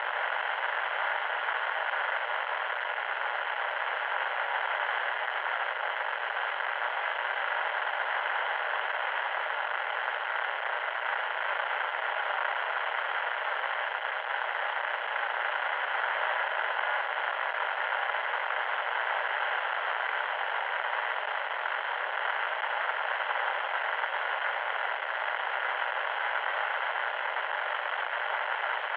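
Loud, steady electronic static: an unbroken hiss held within the middle range, with no deep or high end, like radio static.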